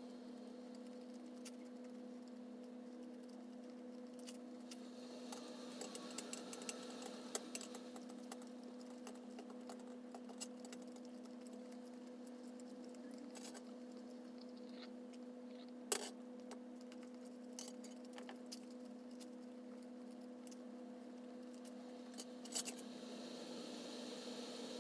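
Faint, scattered light clicks and clinks over a steady low hum, with one sharper click about two-thirds of the way through.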